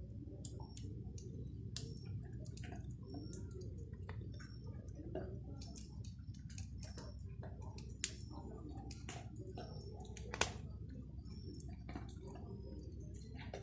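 Firewood burning in a fire pit, crackling with many irregular pops and snaps over a steady low rumble. Two sharper pops stand out, about 8 and 10 seconds in.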